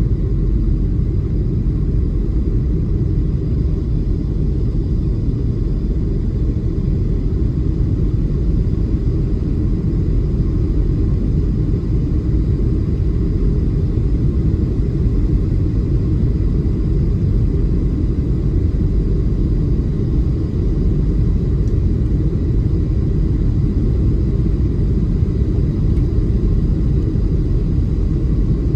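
Steady low rumble of a Boeing 737-700's airframe and CFM56 engines heard inside the passenger cabin, with faint thin high engine tones over it and no change in pitch or level.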